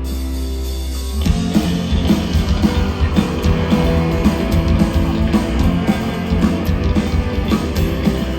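Live rock band playing an instrumental passage: a sustained chord rings, then about a second in the full band comes in with a steady beat and guitar.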